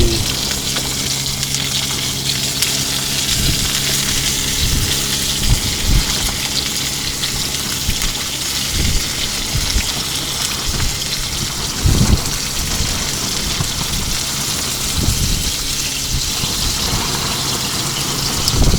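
Salmon frying in a pan on a propane camp stove, a steady sizzling hiss, with irregular low thumps of wind gusting against the tent.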